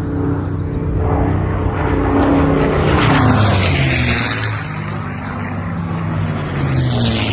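Propeller-driven aircraft engines droning overhead at an air show, the pitch falling as planes pass, once about halfway through and again near the end.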